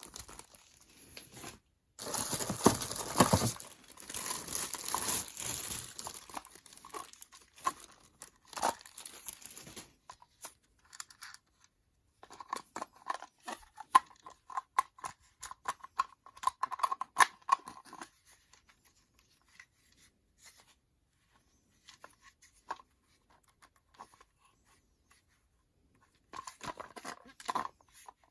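Packaging being handled: tearing and crinkling in bursts, densest for several seconds near the start, then scattered rustles and clicks with quiet gaps and a last short cluster near the end.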